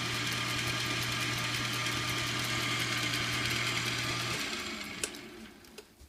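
Metal lathe running with a steady motor hum, switched off a little over four seconds in and spinning down to quiet, with a couple of sharp clicks near the end.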